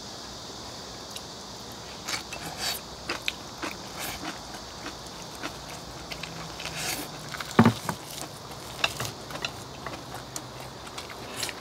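Eating sounds: chewing and chopsticks clicking against glass bowls and a metal pan, with one louder knock a little past halfway. A faint steady high-pitched drone runs underneath.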